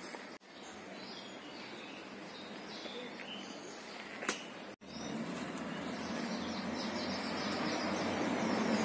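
Outdoor garden ambience with a few faint bird chirps in the first half, then a low steady noise that grows louder toward the end. The sound drops out briefly twice.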